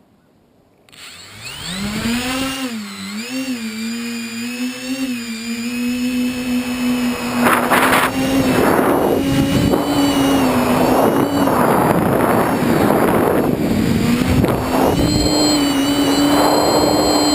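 Tricopter's electric motors and propellers spinning up about a second in, then a steady whine whose pitch wavers as the throttle changes in flight. From about seven seconds on, rushing noise swells and fades over it.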